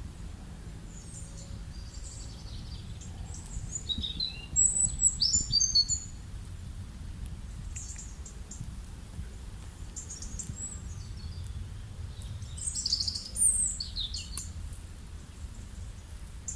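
Wild birds chirping and trilling in short high calls, with two louder clusters of calls about five and thirteen seconds in, over a steady low rumble of rural background noise.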